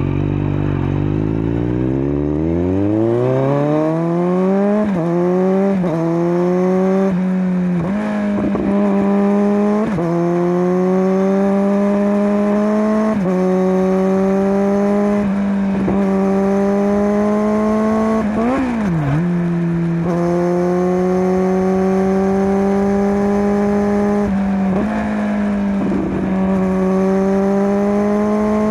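Kawasaki Z900's inline-four through a LeoVince LV10 slip-on exhaust, pulling hard from low revs with the pitch climbing, then several quick upshifts in the first ten seconds. After that it holds a steady high-revving drone, with a brief throttle dip and recovery about two-thirds of the way through.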